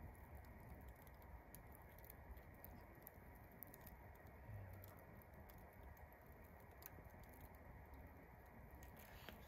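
Faint, sparse crackling of a wood campfire: scattered small pops and ticks over a low, quiet background hiss.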